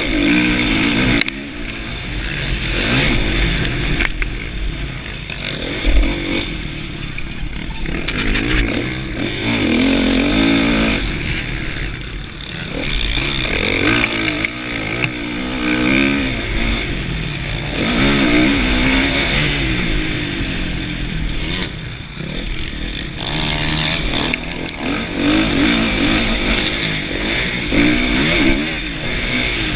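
2016 Kawasaki KX450F's single-cylinder four-stroke engine being ridden hard on a motocross track, revving up and dropping off again and again through throttle openings and gear changes.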